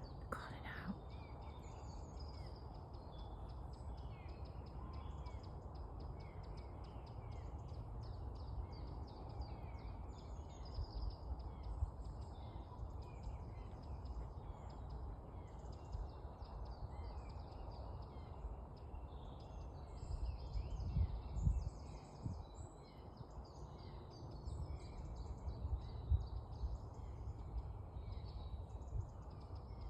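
A dawn chorus of woodland songbirds: many birds chirping and twittering at once, without a break, over a low rumble with a few bumps about two thirds of the way in.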